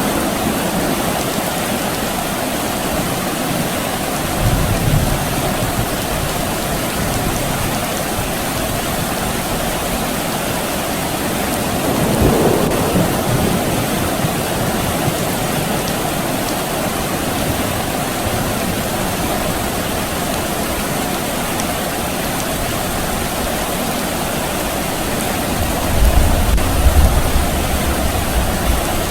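Steady soft rain with distant thunder. Low rumbles swell about four seconds in, again near the middle, and most strongly near the end.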